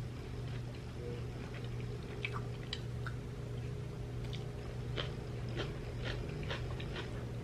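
Close-up chewing with scattered wet mouth clicks and smacks from someone eating chicken biryani with their fingers, over a steady low hum.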